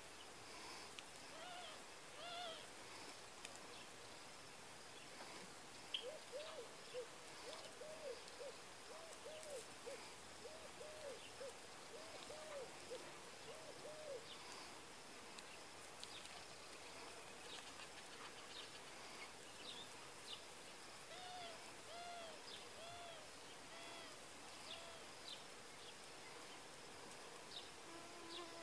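Faint outdoor ambience with distant bird calls: a run of short rising-and-falling notes at about two a second, starting a few seconds in and coming back later, over scattered higher chirps.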